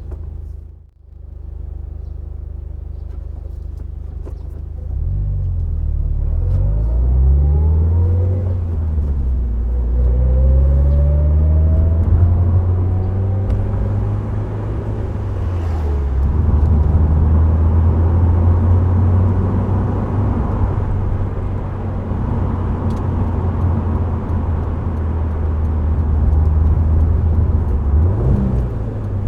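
Subaru Impreza WRX STI Spec C's turbocharged flat-four engine with an A-RM aftermarket exhaust, pulling through the gears with the pitch rising, dropping at a shift and rising again, then settling into a steady cruising drone. The sound dips briefly about a second in, and the engine pitch rises briefly again near the end.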